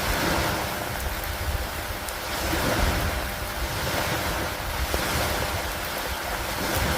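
Steady rain with wind: a continuous hiss that swells and eases gently, with a low rumble underneath.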